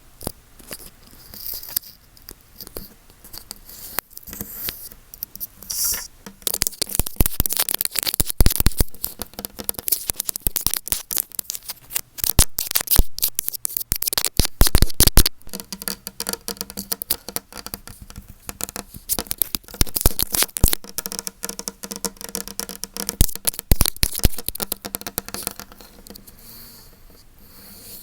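An earphone microphone being rubbed and scratched right on its capsule: dense crackling, scraping and clicking. It starts sparse, turns heavy after a few seconds, and thins out near the end.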